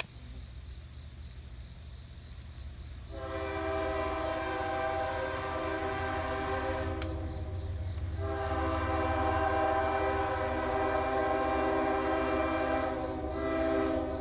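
CSX freight locomotive's air horn sounding, a chord of several steady tones that starts about three seconds in, breaks off briefly around seven seconds in and again near the end, over the low steady rumble of the diesel engines.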